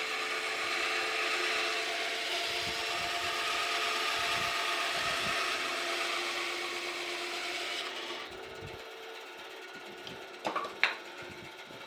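A power tool running steadily on wood, which dies away about eight seconds in; a few sharp knocks follow near the end.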